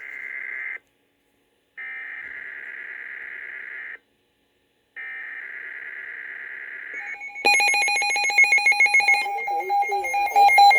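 Weather radio SAME digital alert header: bursts of buzzy data tones about two seconds each, with a one-second gap between them, cutting into the forecast. About seven and a half seconds in, a louder alert tone with a fast pulse takes over, signalling that a High Wind Warning follows.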